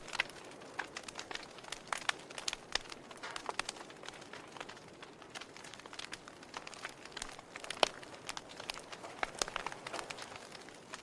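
Wood fire in a fireplace crackling: irregular sharp pops and snaps over a soft hiss, with one louder pop about eight seconds in.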